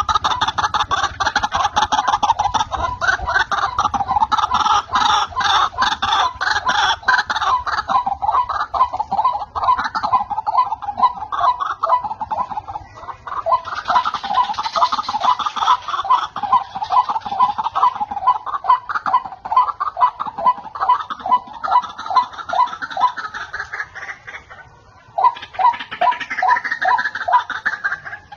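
White-breasted waterhen (ruak-ruak) calling in a long, rapid run of repeated notes, pausing briefly near the end before carrying on. This is the call used as a trapping lure.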